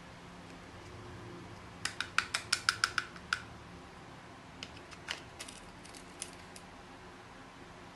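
A quick run of about nine sharp clicks of small hard objects being handled, about two seconds in, then a few scattered lighter clicks, over a faint low hum.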